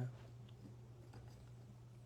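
Soft, faint clicks of trading cards being handled, over a steady low hum.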